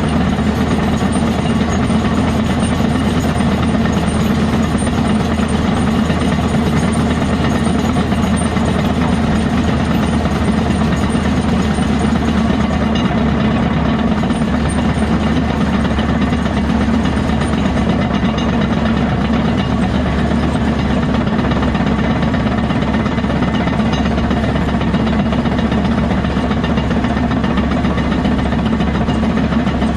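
Diesel engine of heavy earthmoving machinery running steadily under work, a constant deep drone.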